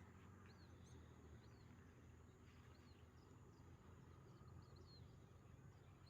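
Faint, short high bird chirps repeating about every second, over a low steady hum and a thin high whine.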